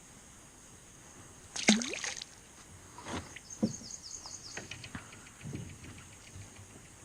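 Water splashing and sloshing against a kayak: a sudden loud splash about a second and a half in, then several lighter knocks and splashes with a quick run of high ticks in the middle.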